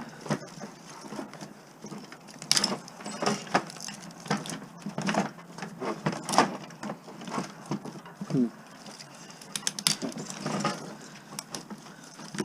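Irregular knocks, clinks and scrapes of metal parts and wire being handled and worked with hand tools, with a short squeak a little past halfway.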